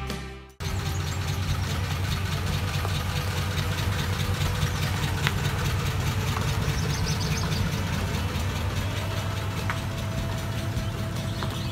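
A 1950s Ford sedan's engine idling steadily.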